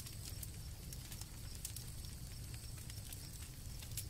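Campfire crackling with scattered sharp pops over a low steady rumble, with crickets chirping faintly and steadily.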